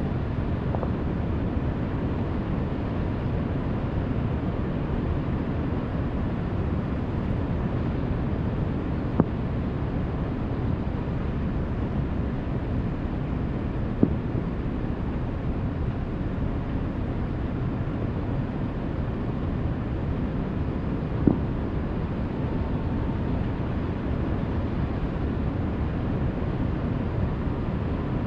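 Steady low outdoor rumble with wind on the microphone, broken three times by a single short sharp bang, several seconds apart.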